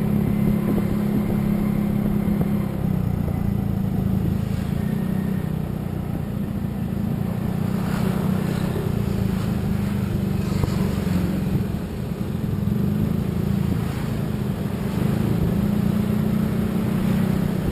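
Motor vehicle running steadily on the road: a continuous low engine drone with road noise, easing off briefly a couple of times.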